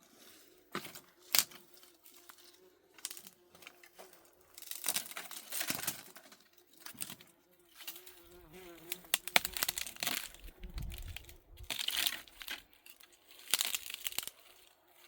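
Irregular rustling and crinkling with scattered sharp clicks, as of dry material being handled.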